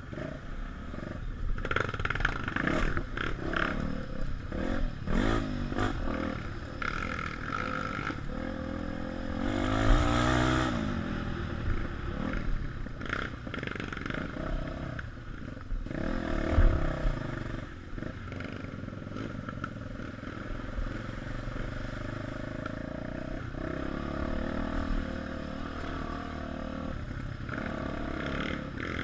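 Single-cylinder trail motorcycle engines running and revving, rising and falling in pitch, with a loud rev about ten seconds in and scattered clattering knocks.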